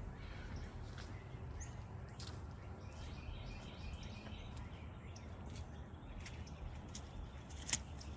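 Outdoor ambient noise: a steady low rumble with faint scattered ticks, and one sharp click near the end.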